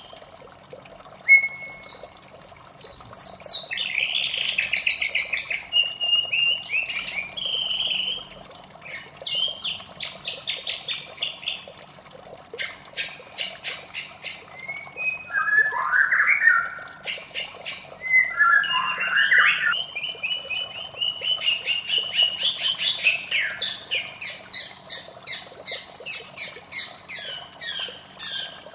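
White-rumped shama singing a long, varied song: clear whistles, fast runs of repeated notes and harsh chattering phrases, one after another. Under it runs a steady rush of water.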